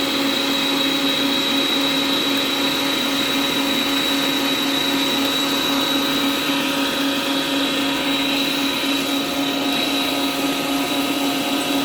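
Electric kitchen appliance motor, blender or stand mixer, running steadily at constant speed while beating carrot cake batter, with a steady whine.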